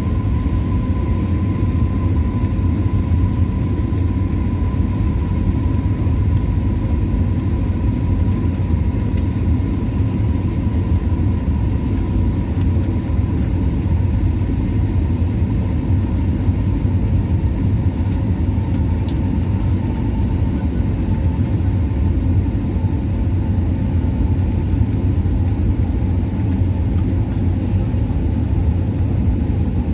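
Steady cabin noise inside an Airbus A320 in flight: a deep, even rumble of engines and airflow, with a thin steady whine on top that slowly sinks a little in pitch.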